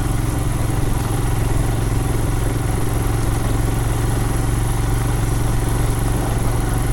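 Royal Enfield Himalayan's 411 cc air-cooled single-cylinder engine running steadily at one engine speed, without revving.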